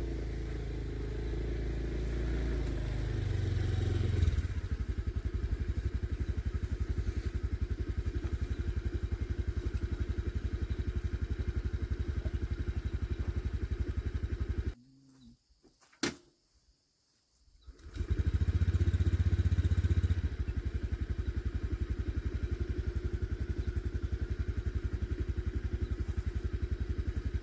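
A motor vehicle engine running steadily with a fast, even pulse. It cuts out for about three seconds midway, then comes back louder for a couple of seconds before settling.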